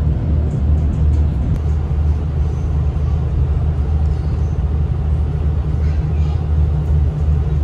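Steady low rumble inside a diesel passenger train carriage: engine drone and wheels on the track while the train runs along.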